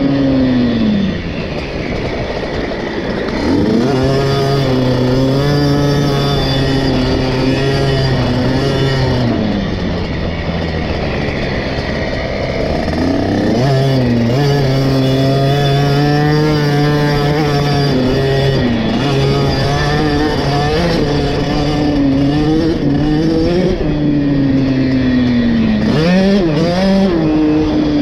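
KTM 50 SX's small two-stroke single-cylinder engine being ridden hard around a motocross lap. It revs up sharply and holds high for several seconds at a time, then drops off and climbs again, about four times over the stretch.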